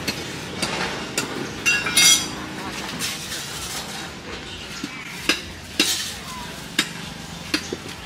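Food sizzling as it fries, a steady hiss broken by scattered sharp clinks and knocks of utensils. A short high-pitched tone comes about two seconds in.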